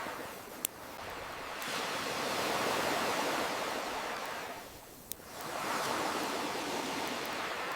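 Ocean waves surging in and washing back, swelling and ebbing twice, with two single sharp pops of a crackling wood fire, one just under a second in and one about five seconds in.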